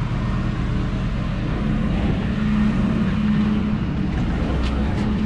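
An engine running steadily at low speed, with a steady low hum that grows a little stronger about two seconds in.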